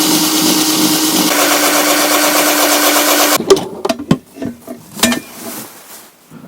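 Small electric drill running steadily as it bores holes into a plastic dashcam housing. Its pitch dips slightly a little over a second in, and it stops suddenly about three and a half seconds in, followed by a few clicks and handling knocks.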